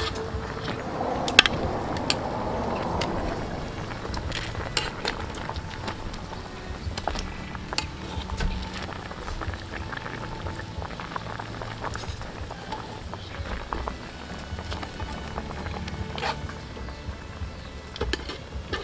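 Pig's feet sizzling and bubbling in a hot wok, with metal tongs clicking and scraping against the pan now and then as the pieces are turned. Faint background music runs underneath.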